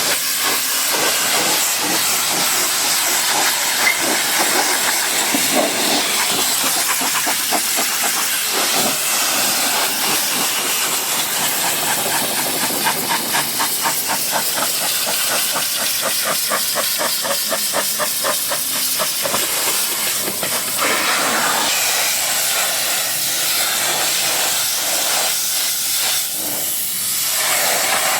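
High-pressure car-wash spray hissing steadily against a car, with a fast, even pulsing through the middle stretch.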